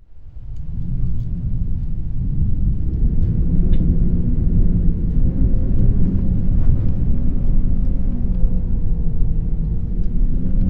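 Strong wind rumbling and buffeting, with a faint steady tone running through it. It fades up from silence over the first second or two.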